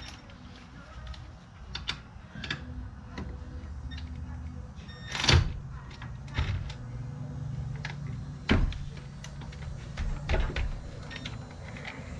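Hand tools and metal parts clicking and clanking while brake caliper bracket bolts are worked loose, with two louder knocks about five and eight and a half seconds in, over a low steady hum.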